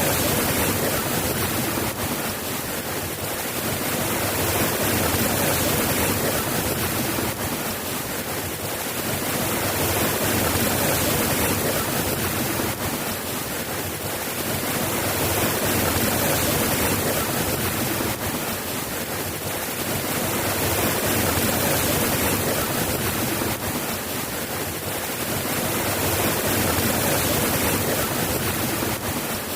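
Steady rainfall, a dense even hiss that swells and eases every five or six seconds.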